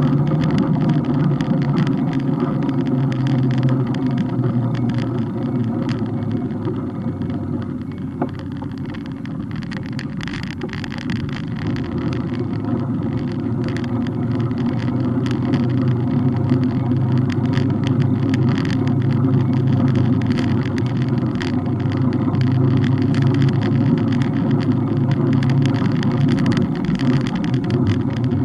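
Steady rumble of a moving bike ride, with wind and road noise on the rear-facing camera and many small rattles and clicks throughout. It eases slightly about a third of the way in, then builds again.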